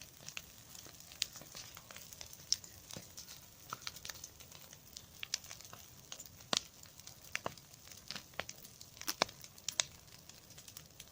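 Bonfire of dry corn stalks and leaves crackling, with irregular sharp pops and snaps over a faint steady hiss.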